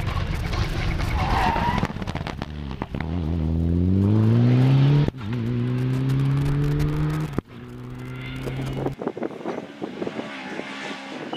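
Rally car accelerating hard past, its engine revs climbing and cut by two quick upshifts about five and seven seconds in, then dropping away near the end. Tyre noise at the start.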